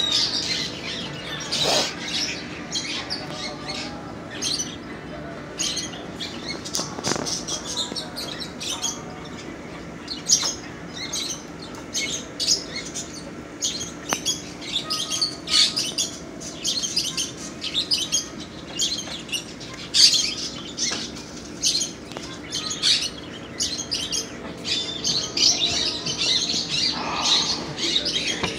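Many caged birds chirping and tweeting continuously, with short high calls packed closely together over a steady low hum.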